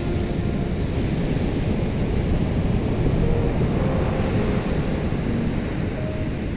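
Ocean waves washing onto a beach in a continuous rush of surf, swelling about two seconds in and easing off again.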